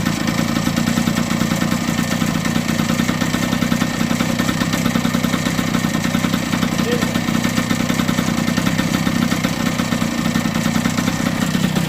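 1978 Yamaha DT100's single-cylinder two-stroke engine running steadily at idle, with an even rapid exhaust pulse.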